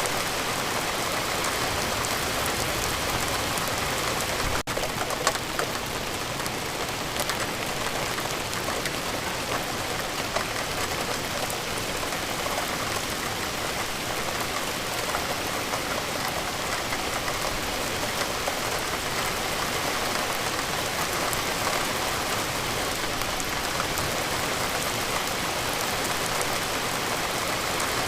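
Rain falling steadily: an even hiss with scattered drops ticking on a surface, and a momentary break in the sound about four and a half seconds in.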